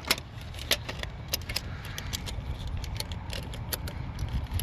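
Scattered light clicks and clinks, a few each second, as a metal torque strut mount is handled, over a steady low rumble.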